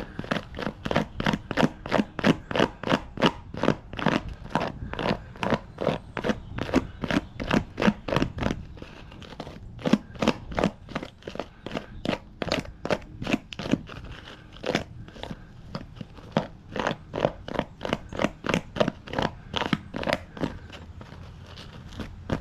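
Rapid, repeated scraping strokes through the feathers and dried skin of a borax-cured chicken hide, about two to three strokes a second, with short pauses about nine and fifteen seconds in.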